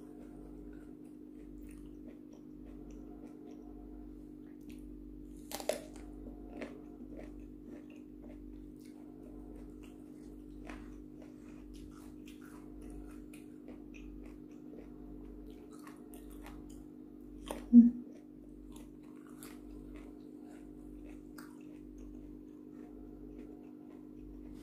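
A person chewing and biting food close to the microphone, eating by hand from a stone mortar of sambal, with soft repeated chewing sounds, scattered small clicks, and two sharp clicks, the louder about 18 s in. A low steady hum lies underneath.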